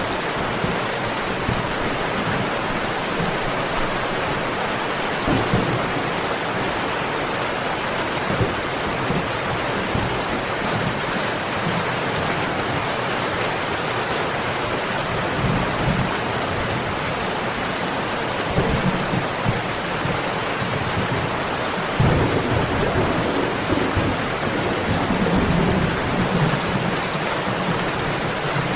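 Steady, heavy rain with low rumbles of thunder rolling through it, the thunder strongest in the second half.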